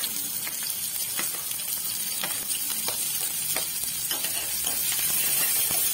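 Chopped onion and garlic paste sizzling in hot oil in a kadai: a steady frying hiss with scattered sharp clicks.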